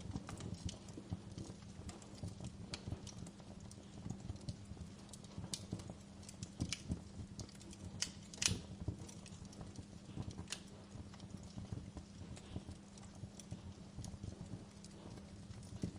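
Wood fire in a fireplace crackling, with irregular snaps and pops over a low steady rumble, and one louder pop about halfway through.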